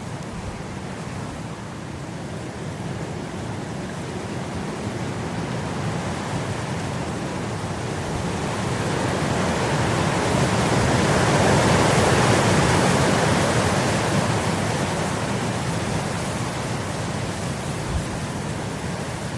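Wind blowing across grass, a steady rushing that swells into a gust about twelve seconds in and then eases off.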